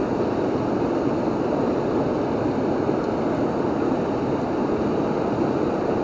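Waterfall rushing steadily: a constant, even wash of falling water with no breaks.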